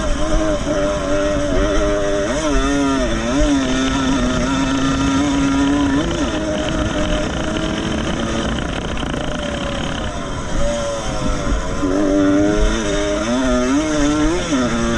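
Vintage 125cc two-stroke motocross motorcycle engine running hard. The revs rise and fall quickly a few seconds in and again near the end, and hold steadier in between.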